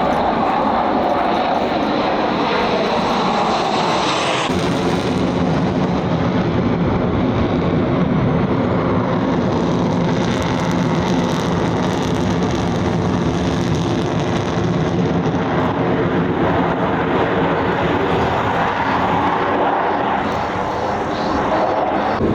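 Aircraft engine noise: a loud, continuous roar, with a steady droning pitch settling in about four seconds in.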